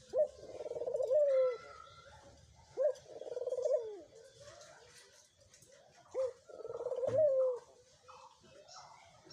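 Dove cooing three times: each coo is a short upward note followed by a rolling, purring note that falls away at the end. This is the cooing of doves pairing up, with a few fainter, higher calls between the coos.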